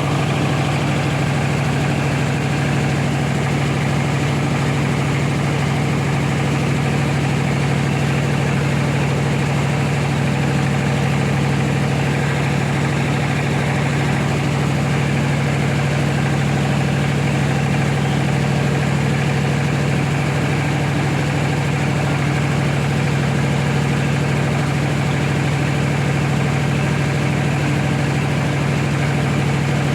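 Rice milling machine running steadily, a constant deep hum over dense machine noise that doesn't change.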